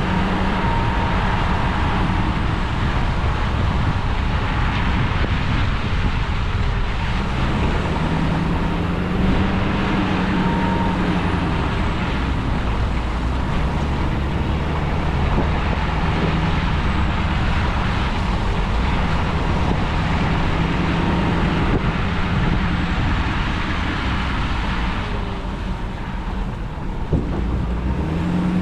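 Truck engine running under way with steady road noise, its pitch rising and falling a little.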